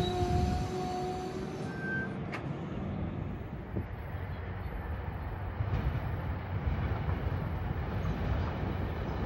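Commuter train rolling through a station. A steady wheel squeal over the rumble fades out about a second and a half in, leaving the low rumble of the wheels and cars.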